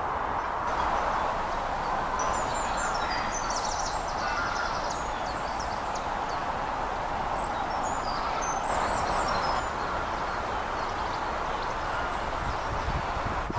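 Faint, high chirps and short trills of small songbirds, in a cluster a couple of seconds in and again around the middle, over a steady rushing background noise.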